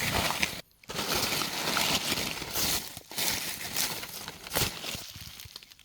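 Rustling and crunching of ground litter being moved about by hand, a run of crackles with a short break under a second in.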